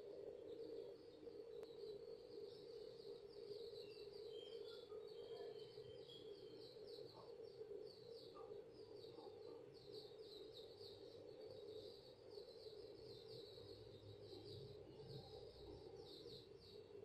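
Faint background of small birds chirping in quick repeated notes, over a steady low hum.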